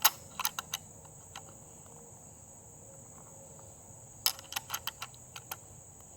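Sharp metallic clicks and clacks from a 7.7×58 mm Arisaka bolt-action rifle being handled and loaded through its top feed, a cluster at the start and another from about four seconds in, over a steady high insect trill of crickets.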